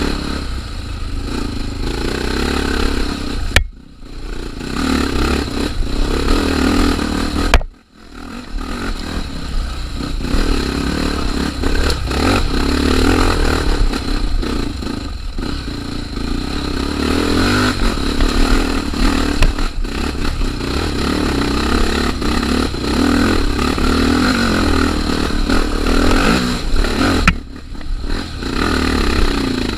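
Honda Tornado trail motorcycle engine running under load while the bike rides a rough, stony trail. The sound breaks off sharply twice, about 4 and 8 seconds in, then picks up again.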